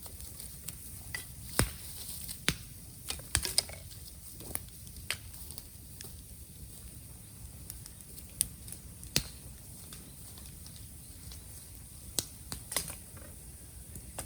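Bamboo bonfire crackling, with sharp irregular snaps and pops from the burning bamboo, some in quick clusters.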